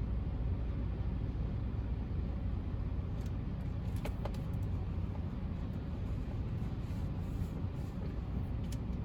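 Steady low rumble of a car idling, heard from inside the cabin, with a few faint clicks partway through and near the end.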